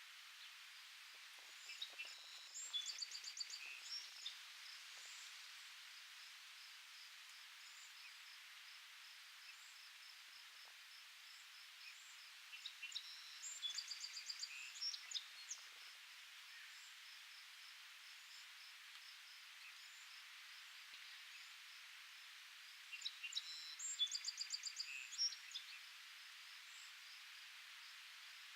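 A songbird sings the same short, trilling song phrase three times, about ten seconds apart, over a steady high hiss with faint, evenly spaced insect chirps.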